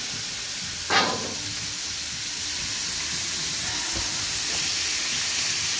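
Minced beef sizzling in a hot frying pan with coconut oil, a steady hiss. There is a brief knock about a second in.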